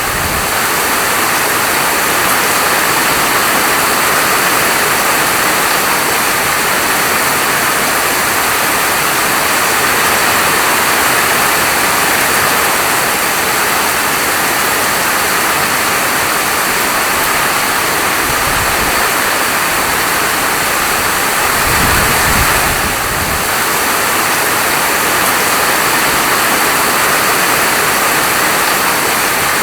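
Steady heavy rainfall, a dense even hiss of falling rain. A low rumble swells briefly twice, a little before and a little after the middle.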